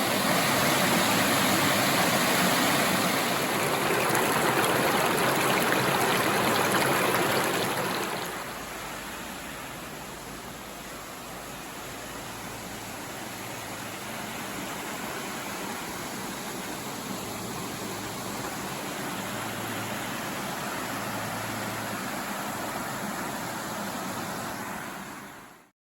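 Waterfall and river water rushing in a steady roar. It is louder for about the first eight seconds, then drops to a softer, steady rush that fades out just before the end.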